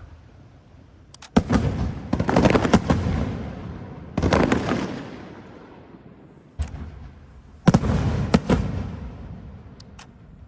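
Fireworks bursting overhead: a string of sharp bangs, some in quick clusters, each followed by a rumbling, crackling tail that fades over a second or two.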